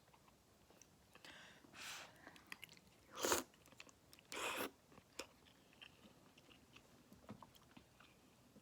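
Close-up eating sounds of someone eating tan tan men ramen: chewing, with four short noisy bursts, the loudest about three seconds in.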